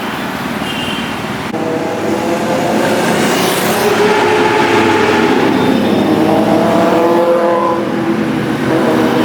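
Superbike engine revving hard as it passes, getting louder about a second and a half in, its pitch rising and falling over several seconds.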